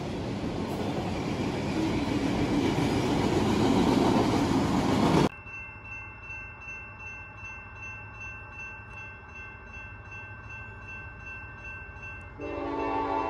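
Freight cars rolling past a grade crossing, a loud rumbling rail noise that grows louder and then stops abruptly about five seconds in. Then the crossing signal rings steadily and faintly, and near the end a chime horn sounds for about a second.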